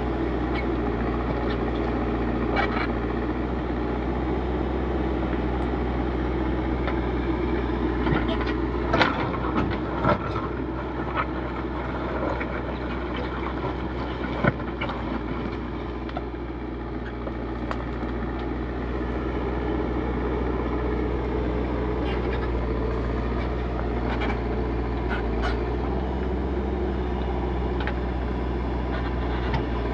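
Backhoe loader's diesel engine running steadily under digging work, its note shifting for a few seconds partway through, with scattered sharp knocks, several of them close together about a third of the way in.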